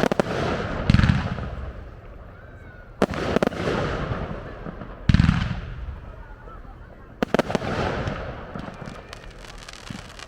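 Display fireworks: aerial shells bursting in loud bangs about every two seconds, each with a low rumbling tail, then a run of rapid crackling near the end.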